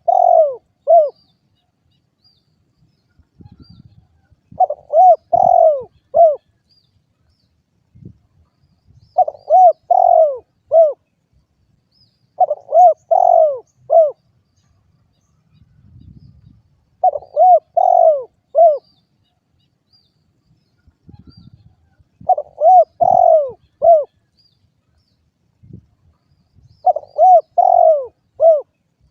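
Derkuku (spotted dove) cooing: a short phrase of three or four notes, repeated about every four seconds.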